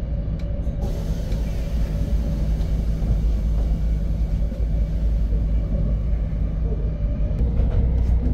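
Steady low rumble of an N700S Shinkansen train running, heard from inside the passenger car, with a faint steady hum over it.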